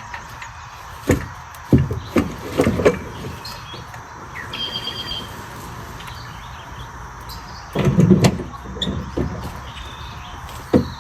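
A series of irregular knocks and thumps, some in quick clusters, over a steady background, with a few short high chirps in between.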